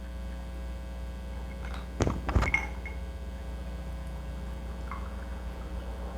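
Steady electrical hum, with a short cluster of sharp clicks and knocks about two seconds in.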